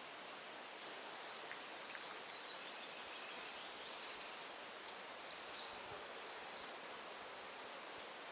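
Forest ambience: a steady soft hiss with a faint warbling bird, then four short high chirps from a bird, starting about five seconds in.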